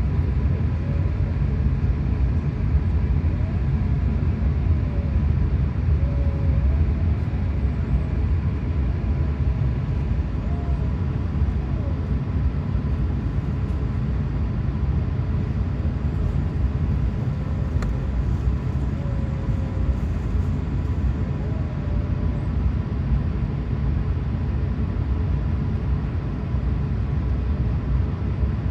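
Steady low rumble of an Airbus A380-800's engines and airflow heard inside the passenger cabin, with a faint steady hum running through it.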